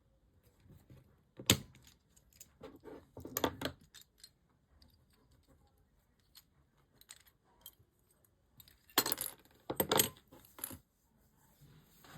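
Small metal parts of a diecast model car clinking and rattling as they are handled and set down: a sharp click about a second and a half in, a short jingling cluster soon after, and a longer run of clinks near the end.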